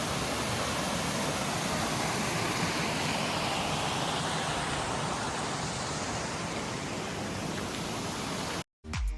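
Steady rushing water of a waterfall, an even noise that cuts off abruptly near the end.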